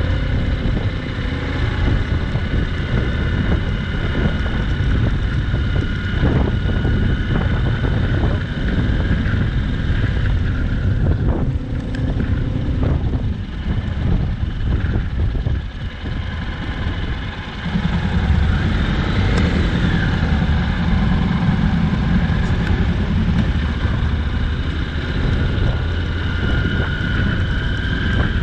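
Honda NC750X parallel-twin motorcycle engine running on the road, with wind rushing over the microphone. The engine dips briefly just past the middle and then grows louder again.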